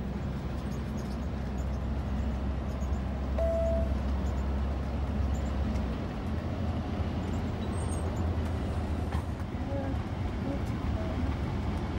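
Steady low road rumble of a motorhome driving on the highway.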